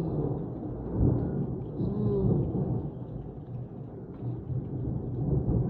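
Thunder rumbling in a rainstorm, a low rolling rumble that swells about a second in.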